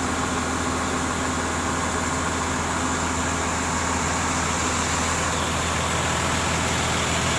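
A motor running steadily with a low, even hum under a constant hiss.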